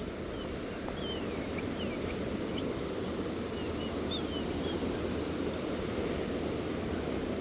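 Steady rush of surf on a rocky shore, with faint, brief bird chirps scattered over it.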